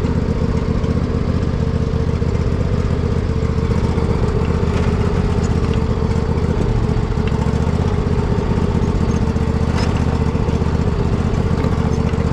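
Poulan riding mower's engine running steadily, a continuous low-pitched pulsing drone, just after a service aimed at curing a bad misfire.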